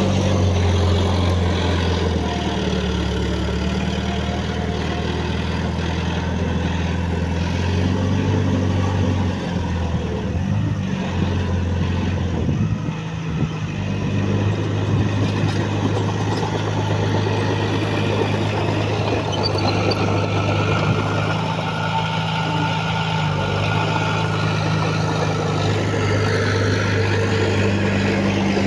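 Large diesel engine of heavy earthmoving machinery running steadily. Its note wavers and dips between about 8 and 14 seconds in, then settles again.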